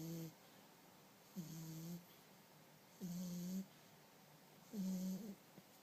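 Three-month-old bulldog puppy snoring in its sleep: a short snore at the start, then three more at about one-and-a-half-second intervals. Each snore holds a steady low pitch, with the last one the loudest.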